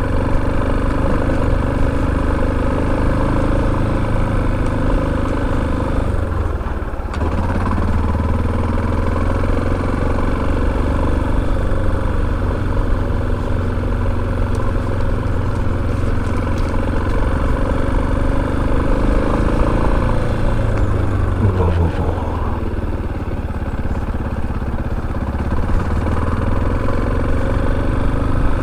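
Motorcycle engine running steadily under way, easing off briefly about seven seconds in and again past the twenty-second mark, its pitch dropping and then climbing back.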